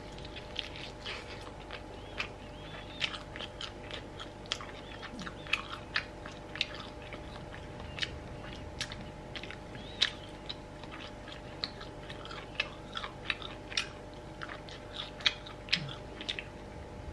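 A person chewing a mouthful of smoked chicken drumstick, with many short, irregular clicks of mouth and teeth over a faint steady hum.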